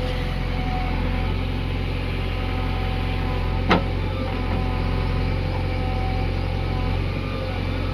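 Diesel engine of heavy machinery running steadily, with a single sharp knock about three and a half seconds in.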